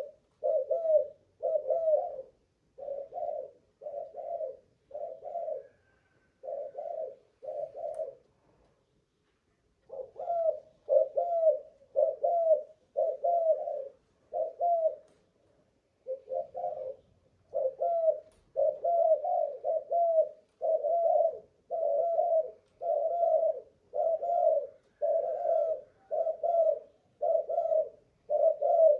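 Spotted dove (cu gáy) cooing: a long run of short, repeated coos, about two a second, broken by a pause of nearly two seconds about eight seconds in and a shorter pause about halfway through.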